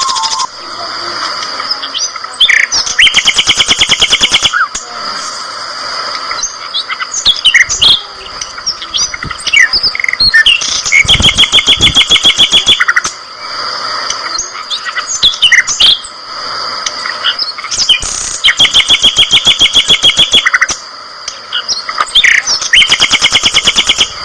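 A flock of budgerigars chirping and chattering, with a loud, rapid trill of about two seconds breaking in four times.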